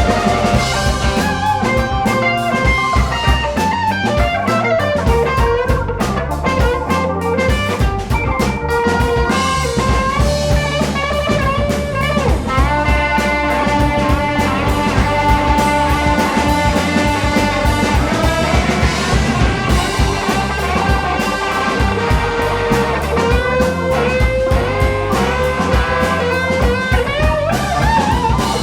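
Blues band playing an instrumental passage: electric guitar lines over drum kit and bass.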